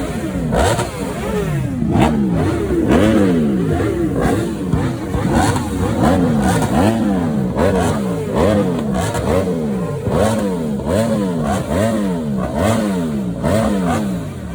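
Engines revving again and again, the pitch climbing and dropping about once a second, with several revs overlapping, and sharp cracks scattered through.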